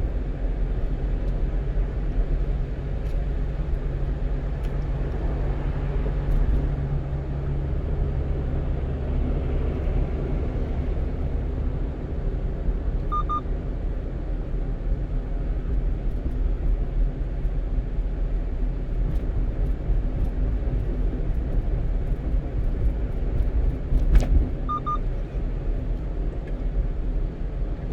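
One-ton truck driving, heard from inside the cab: a steady low rumble of engine and road noise. A short double beep sounds about halfway and again near the end, with a single knock or thump just before the second beep.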